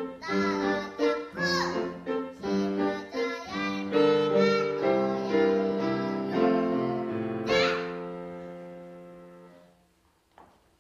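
A child singing a children's song to piano accompaniment, ending about seven and a half seconds in on a final piano chord that dies away over a couple of seconds.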